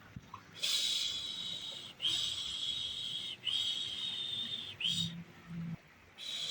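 A person shushing a baby with a long, repeated 'shhh', the soothing 'pış pış' sound, about one shush every second and a half with a short pause between each. There is a longer break about five seconds in before the next shush begins.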